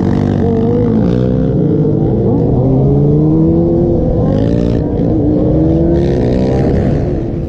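Motorcycle engine revving hard, its pitch climbing and dropping several times as it accelerates and the revs fall back.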